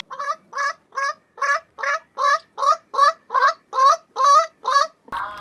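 A bird calling in a rapid run of about a dozen short, evenly spaced calls, a little over two a second, each with the same pitch contour.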